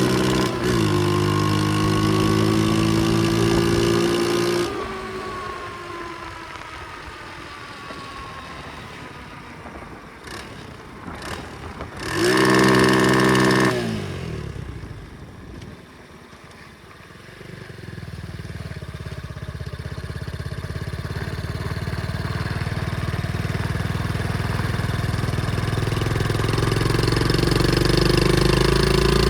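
Pit bike engine running under way, its pitch rising and falling with the throttle and gear changes. It drops quieter about five seconds in, gives a short loud rev at about twelve seconds that falls away, and builds up again toward the end.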